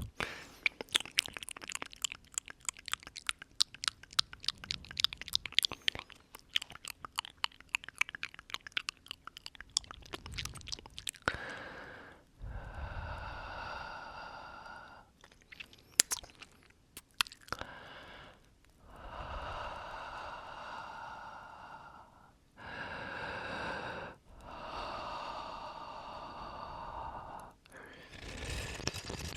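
Close-up mouth sounds into the microphone: rapid wet clicks and smacks for the first ten seconds or so, then a series of slow, long breaths blown onto the microphone, each lasting two to three seconds.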